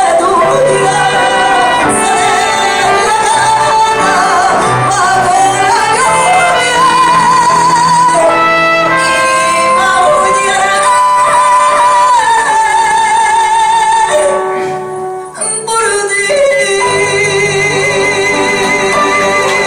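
A female singer sings a copla ballad with piano accompaniment, holding long notes with a wide vibrato, in a reverberant hall. There is a short lull about three quarters of the way through.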